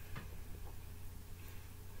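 Someone chewing pizza with the mouth closed: a few faint mouth clicks over a steady low hum.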